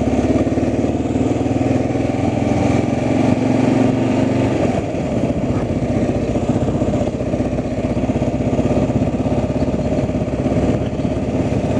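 A vehicle engine running steadily at low speed, its hum shifting slightly about five seconds in.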